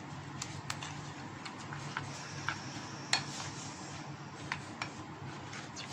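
A spoon tapping and scraping against a bowl while stirring a thick flour-and-water batter: irregular light clinks, the loudest about three seconds in.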